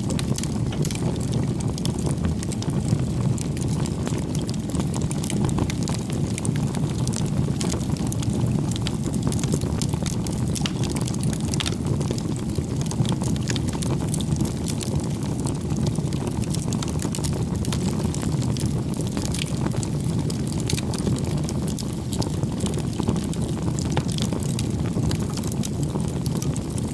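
Campfire burning steadily: a constant low rumble of flames with many small, scattered crackles and pops.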